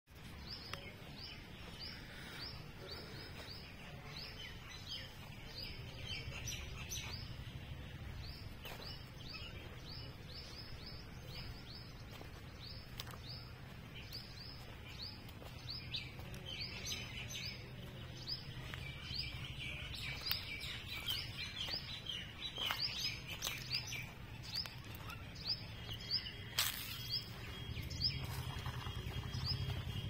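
Small songbirds chirping: short, high chirps repeated about three times a second, joined by more chirping from about halfway through. A steady low rumble runs underneath.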